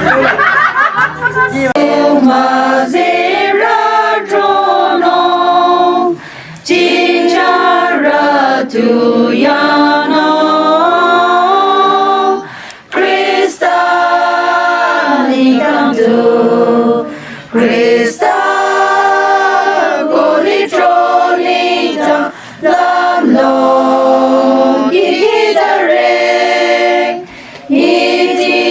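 A group of people singing a Christian hymn together without accompaniment, in sustained phrases with short breaks between lines.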